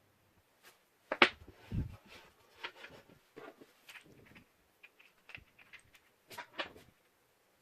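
Angle grinder cutting stand and its parts being handled during unboxing: a series of clicks, knocks and rustles. The loudest knock comes about a second in, followed by a low thud.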